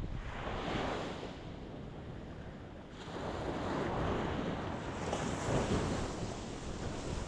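Ocean waves breaking on a rocky shore: one wave washes in near the start and eases off, then another builds from about three seconds in and breaks. Wind rumbles on the microphone underneath.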